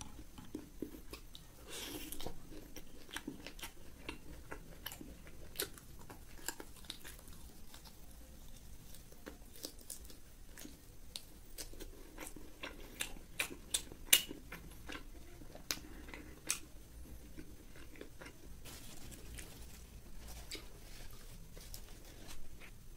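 Close-miked chewing and biting of fried pork: irregular sharp crunches and wet mouth sounds, the loudest crunch about fourteen seconds in.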